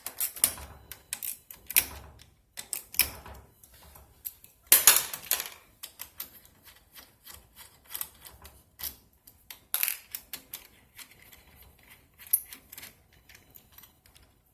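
Irregular sharp metal clicks and clatter of a wrench working screws loose and out of a Nissan Leaf battery module's casing, with a louder run of clicks about five seconds in and another near ten seconds.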